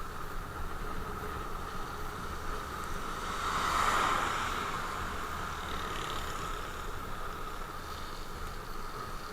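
Motorcycle running on the move, a steady engine hum with wind and road noise, swelling louder about four seconds in before settling back.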